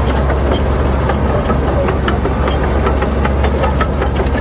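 Heavy diesel engine of earthmoving equipment running steadily with a deep, even hum, with scattered light clanks and clicks throughout.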